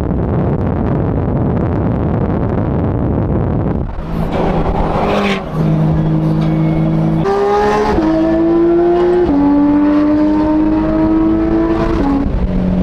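Ferrari V8 engine accelerating hard. About four seconds of rough rumble give way to a strong engine note that climbs in pitch and drops sharply at each upshift, through several gear changes.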